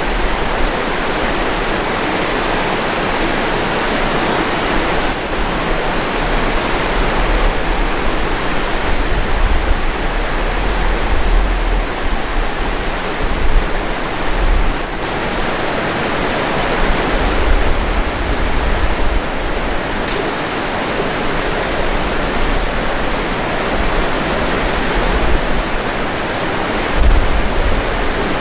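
Rushing stream water, a steady loud wash with uneven low rumbles underneath.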